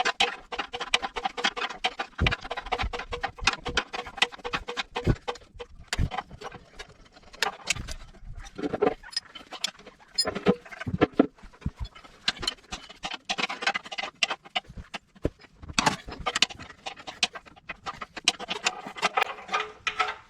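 Irregular metallic clinks and knocks from handling the removed, dull wood-chipper blades and tools, over background music.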